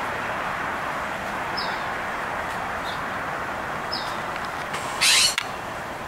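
Small bird giving short, high, downward-sliding chirps every couple of seconds over steady background noise. About five seconds in, a sudden loud harsh noise lasts about half a second.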